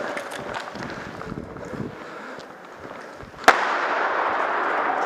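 Airsoft gunfire: a few faint pops, then one sharp, loud crack about three and a half seconds in, followed by a steady rushing noise.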